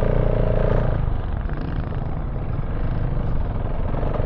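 KTM 690 Enduro R's single-cylinder engine running off-road, fitted with an open silencer; a steady higher note holds for about the first second, then it settles into a lower, rougher run.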